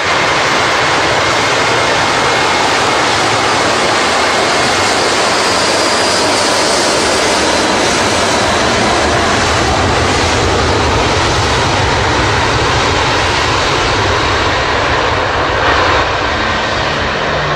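Jet aircraft engines running with a loud, steady roar and a faint high whine, cutting in suddenly at the start.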